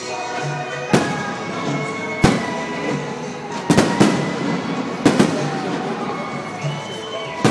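Aerial fireworks shells bursting overhead: about seven sharp bangs at uneven intervals, some in quick pairs. Music plays throughout.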